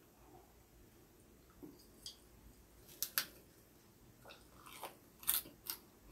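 A person biting into and chewing a lettuce wrap (ssam), close-miked. A handful of short, crisp crunches and clicks begin about halfway through, after a quiet first half.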